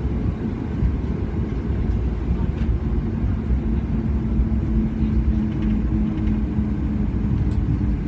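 Steady low cabin rumble inside a Boeing 737 MAX 8-200 on the ground after landing, its CFM LEAP-1B engines idling, with a faint steady hum that grows a little stronger about halfway through.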